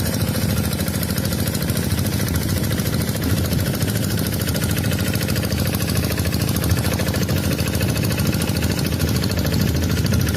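Tractor engine running steadily at an even speed, with a rapid, regular firing beat.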